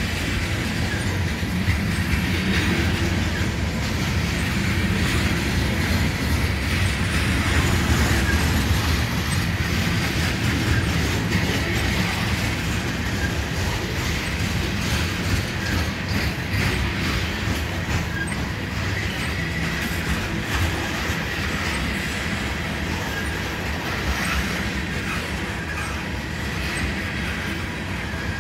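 Coal cars of a freight train rolling past at close range: a steady rumble of steel wheels on the rails, with a continuous clatter of wheels over the track.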